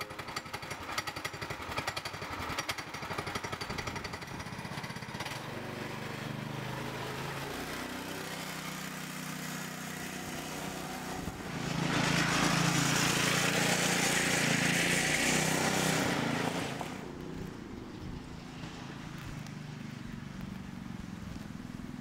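A small ATV engine running. It gets louder for about five seconds in the second half, then drops back.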